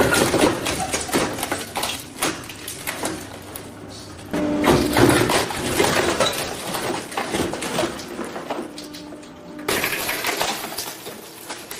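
Industrial shredder crunching the plastic of a toy cement mixer truck: a dense run of cracks and snaps over the machine's low steady hum, louder in surges at the start, about four and a half seconds in and about ten seconds in.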